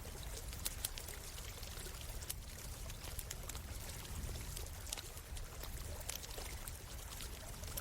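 Flowing stream water running steadily, with a campfire crackling in many short, sharp, irregular pops over it.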